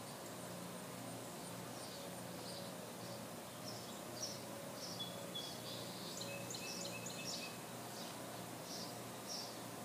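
Small birds chirping: short high chirps about twice a second, with a busier flurry of calls about midway, over a faint steady low hum.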